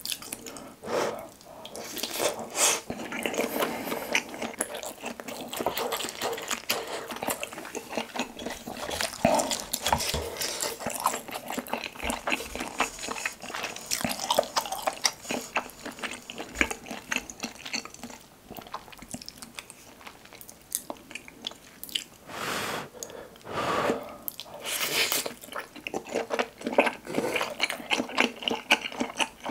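Close-up chewing and biting of soft, wet Korean fish cake (eomuk) taken off a skewer, with steady smacking mouth sounds. A few short, louder breathy bursts come about twenty-two to twenty-five seconds in.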